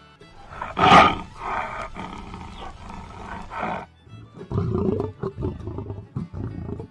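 Lion roaring: one loud roar about a second in, several further calls, then a run of short, low grunts in the second half. Soft background music plays underneath.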